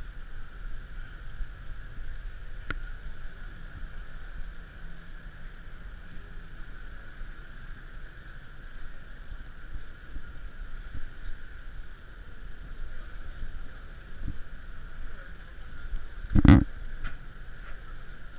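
Steady background ambience at a mining trade show: an even hiss and low rumble with a few faint knocks, and one loud thump about sixteen and a half seconds in.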